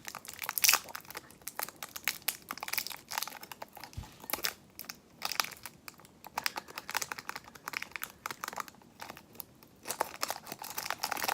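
Plastic wrapper of a Jolly Rancher hard candy crinkling as it is worked open by hand, in irregular crackly bursts.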